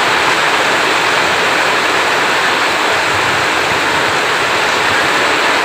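Heavy rain falling as a steady, dense hiss, with no thunder.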